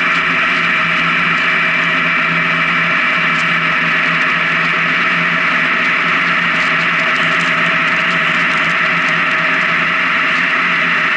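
Honda Gold Wing touring motorcycle cruising at a steady highway speed. Its engine gives a constant hum under steady wind and road noise, with no change in pace.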